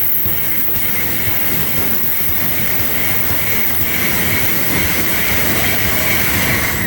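N700-series Shinkansen bullet train passing at speed, a steady loud rush of wheel, rail and air noise with a faint high whine held throughout.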